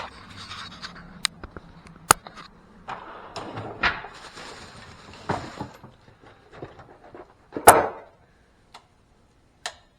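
Scattered clicks, knocks and rustling of tools and parts being handled, with one louder knock a little before the end.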